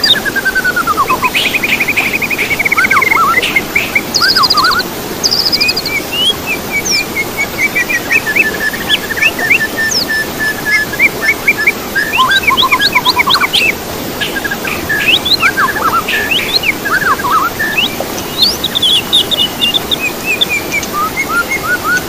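Songbirds singing: a busy, varied stream of whistles, rapid trills and down-slurred notes from several birds, over a steady noisy background.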